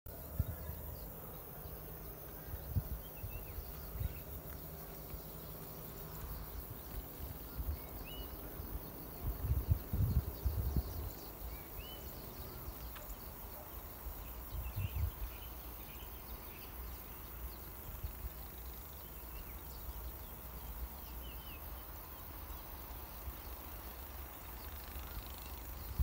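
Quiet rural ambience: a bird gives short rising chirps every few seconds over a faint steady hiss, with occasional low rumbles, the longest cluster about ten seconds in.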